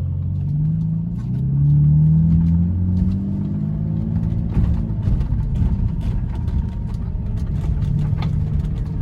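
BMW Z4 engine and exhaust on the move. The pitch climbs under acceleration over the first few seconds, then settles into a steady low rumble.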